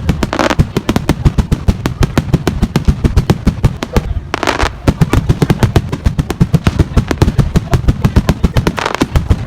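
Fireworks bursting overhead in a rapid, continuous barrage of sharp bangs and crackles, many a second.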